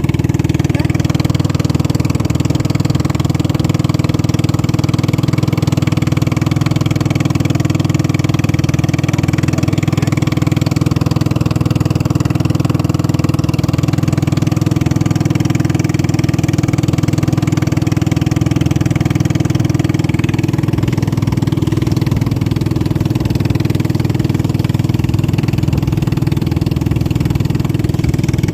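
Boat engine running at a steady speed, a loud unbroken drone with no rise or fall in pitch.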